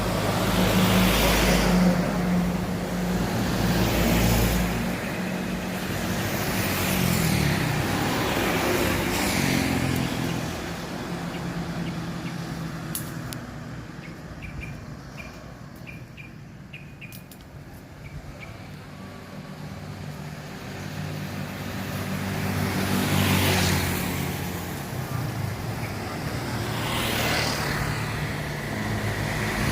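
Road traffic: several motor vehicles pass one after another, each swelling up and fading away, with a quieter lull in the middle before more vehicles go by near the end.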